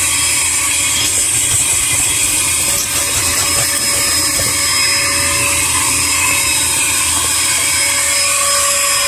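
Vacuum cleaner running steadily with a high motor whine while sucking at a car's carpet. It is too weak to lift the coins from it.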